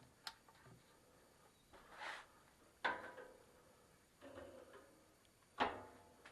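Faint, scattered handling sounds in a workshop: a click, a brief swish, a short rattle and two sharp knocks, with no machine running.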